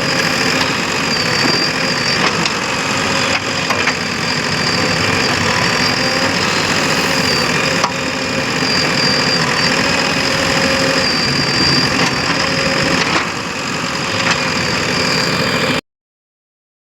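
Heavy diesel engine running steadily with a few faint knocks, cutting off abruptly about a second before the end.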